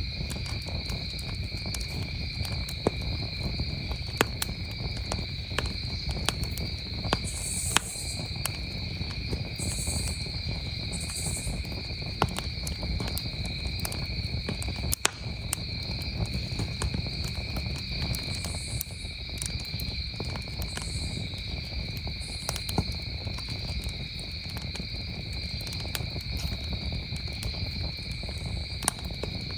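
Campfire crackling, with frequent sharp irregular pops over a low steady rumble, against a steady chorus of crickets chirping.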